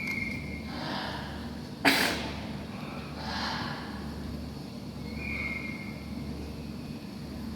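A parrot chattering: short whistled calls and scratchy vocal sounds spaced a second or two apart, with one sudden loud, harsh burst about two seconds in. A steady low hum runs underneath.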